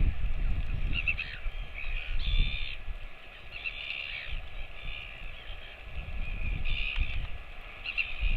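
Repeated short bird calls, about eight of them at uneven intervals, over a low rumble.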